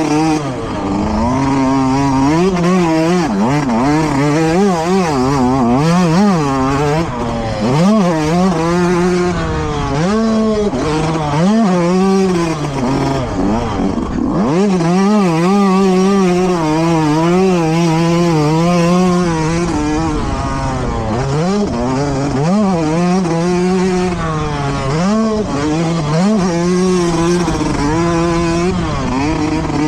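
Motocross dirt bike engines running hard, the pitch rising and falling again and again as the throttle is opened and closed, over a steady engine drone.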